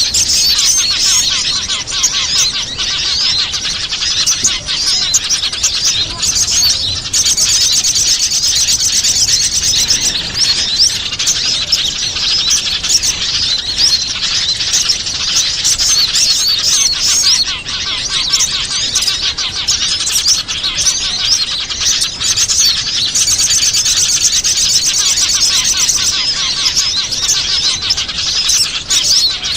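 A dense, unbroken chorus of many small birds chirping and twittering, with fast high trills at times. It is a bird-lure recording ('pikat') played to draw in wild small birds.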